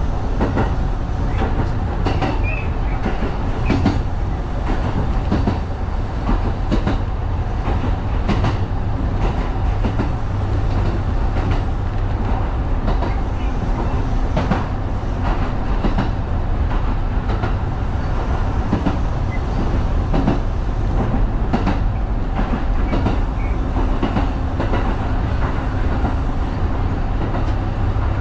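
Kintetsu 1010-series electric train running along the line, heard from the cab: a steady rumble of wheels on rail with irregular clacks over rail joints, and a faint low motor hum that comes and goes.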